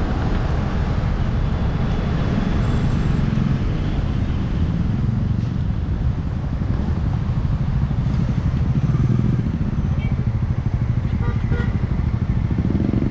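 A motor vehicle's engine running steadily, with a low rumble and road noise.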